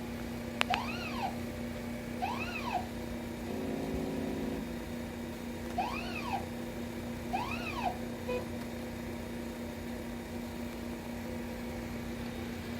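Stepper motors in an atomic absorption spectrophotometer's optical assembly whirring through a self-test: four short whines that rise and fall in pitch, in two pairs, over a steady hum. Another motor buzzes briefly about four seconds in.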